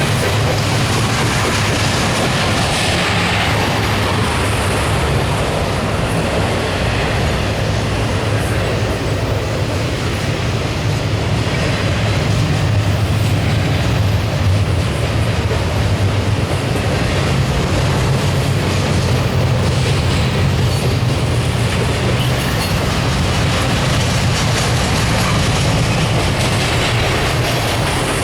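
Intermodal stack train's freight cars rolling past, steel wheels on rail making a steady, loud running noise with a low hum.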